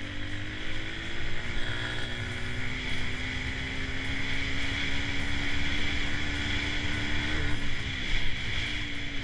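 Dirt bike engine running at fairly steady revs, its pitch creeping up slowly and then falling off about seven and a half seconds in.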